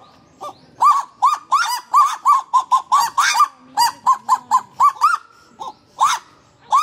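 Kagu calling: a rapid series of short, arched calls, about three to four a second, that breaks off briefly about five seconds in and then resumes.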